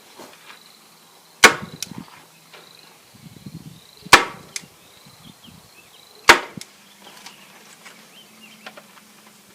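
Hand staple gun fired three times, sharp snaps a couple of seconds apart, driving staples to fasten chicken wire to the wooden gate frame.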